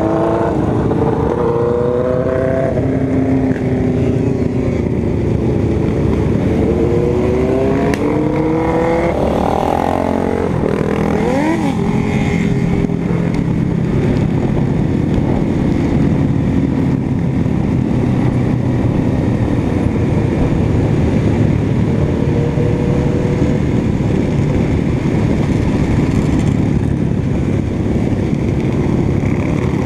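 Motorcycle engine running under way, its pitch rising and falling with throttle and gear changes in the first third and steadier later on, over a constant rushing noise.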